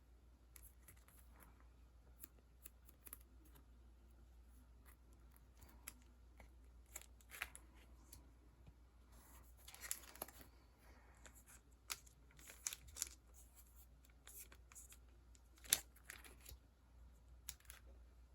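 Faint, scattered rustles and light ticks of paper sticker sheets and plastic packaging being handled, over a steady low hum.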